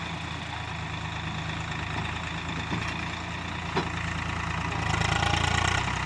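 Swaraj 744 tractor's diesel engine running steadily, growing louder about five seconds in.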